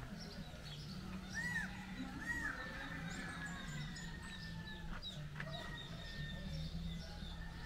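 Birds calling: two short arched chirps early on, then thin, drawn-out high whistles, over a faint low hum.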